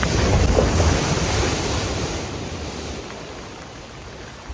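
Rushing splash of floodwater as a vehicle ploughs through a flooded ford, loudest in the first two seconds and then dying away.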